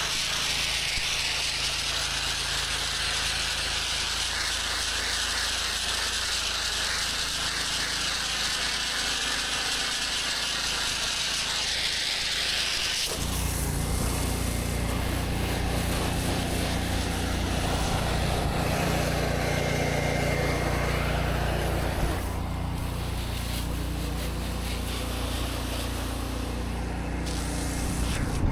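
Pressure washer running with high-pressure water spraying on concrete, a steady hiss over a low engine hum. About 13 seconds in the spray hiss drops away and the engine's steady hum becomes the loudest sound.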